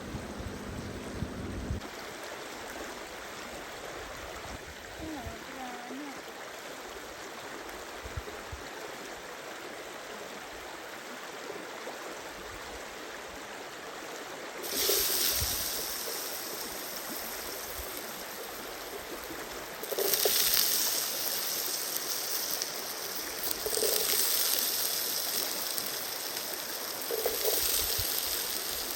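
A stream running steadily, with louder surges of hiss from about halfway through.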